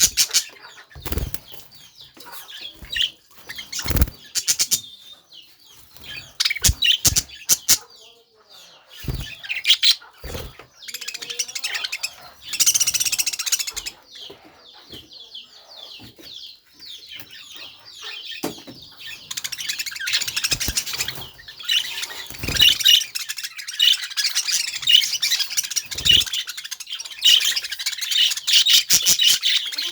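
Budgerigars chirping and chattering, with scattered sharp clicks and knocks and bursts of wing flapping. The chatter grows denser and more continuous in the second half.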